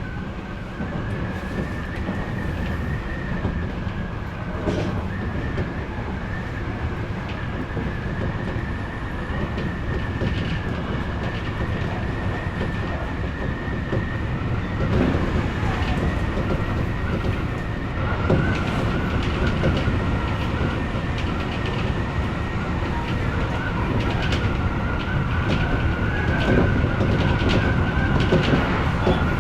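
Odakyu electric commuter train running along the line: a steady rumble of the wheels on the rails with a steady high whine, and clacks over rail joints that come more often in the second half.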